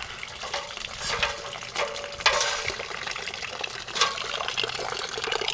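Water running from a garden hose, a steady splashing with a few louder spatters.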